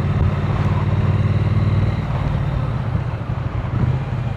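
Triumph Speed Twin 900's 900 cc parallel-twin engine running steadily under way, with road and wind noise behind it.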